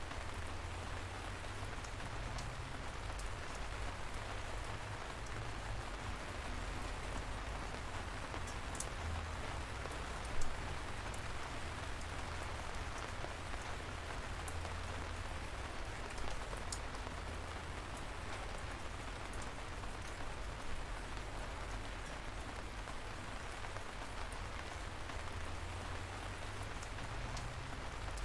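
Steady light rain falling, an even patter with fine drop ticks and a low rumble underneath. One louder drop lands about ten seconds in.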